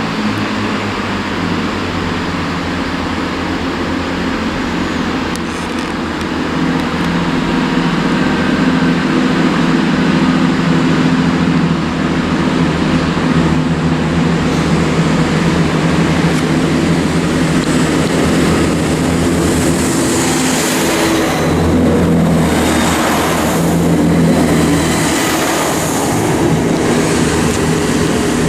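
Class 165 diesel multiple unit pulling out, its underfloor diesel engines running steadily under power and growing slightly louder. Rushes of hissing noise come in about twenty seconds in.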